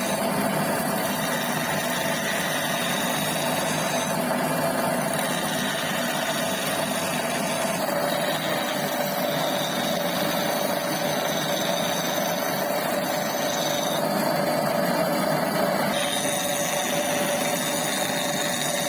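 Metal lathe running steadily, a mechanical hum with a steady whine.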